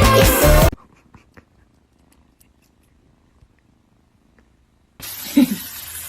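A cat purring faintly in a low, steady rumble, after music cuts off just under a second in. About five seconds in, a steady hiss starts abruptly, with a brief low-pitched sound just after it.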